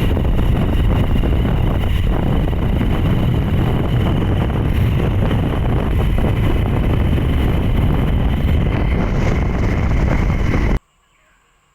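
Loud, steady wind rush on the microphone with engine and road noise from a moving motorcycle, cutting off suddenly near the end.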